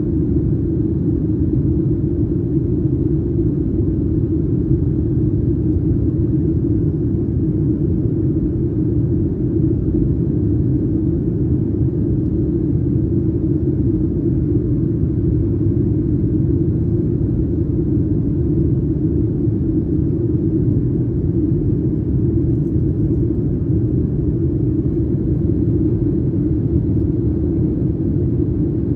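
Steady low cabin rumble of a Boeing 737-900ER in flight, the drone of its CFM56 engines and airflow over the fuselage, heard from an economy seat during descent. It holds an even level throughout, with most of its weight in a low hum.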